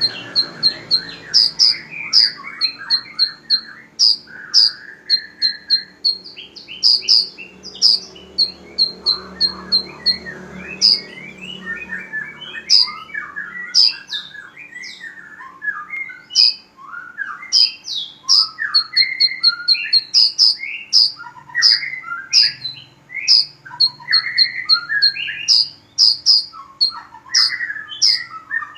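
Caged songbirds singing non-stop: a purple-throated sunbird (kolibri ninja) and a lovebird. The song is quick runs of sharp, high chip notes repeated over and over, above a busy chattering of short rising and falling notes.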